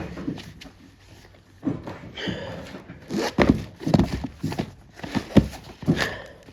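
Irregular knocks and thumps of books being handled, pulled out and set down, quiet at first and then coming about twice a second from around three seconds in.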